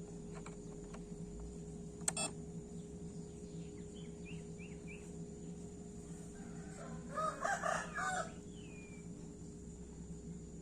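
A rooster crows once, about seven seconds in, with a few short bird chirps before it and a steady low hum throughout.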